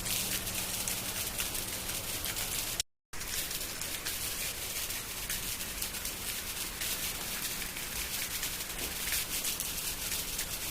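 Heavy rain falling steadily, a dense patter of drops. It cuts to silence for a split second about three seconds in, then carries on.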